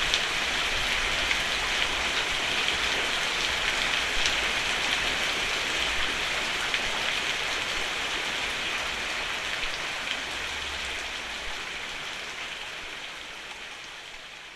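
Steady rain falling on a roof, a dense hiss of drops with small individual taps, gradually fading out over the last several seconds.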